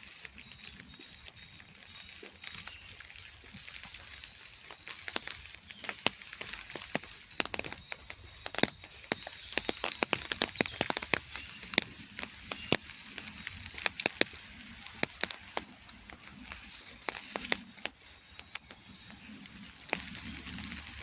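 Rain falling, a steady hiss with many irregular sharp drops tapping close by. The drops come thickest through the middle.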